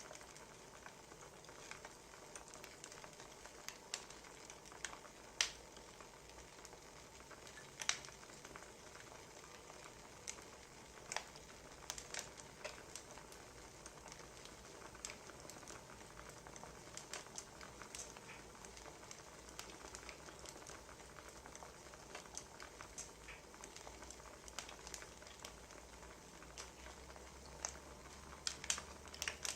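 Wood fire crackling: a soft steady hiss with irregular sharp pops and snaps from burning firewood.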